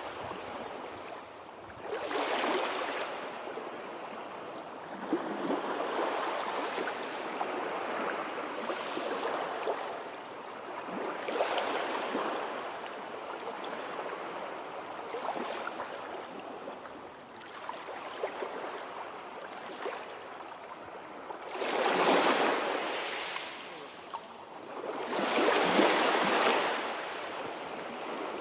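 Sea waves surging and breaking, the noise swelling and fading every few seconds, with two louder waves near the end.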